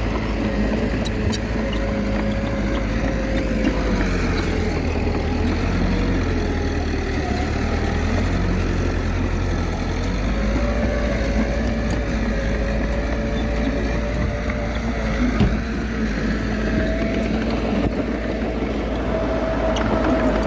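Small crawler bulldozer's diesel engine running steadily, its note sagging in the middle and rising again near the end as the load changes, with a single sharp knock about fifteen seconds in.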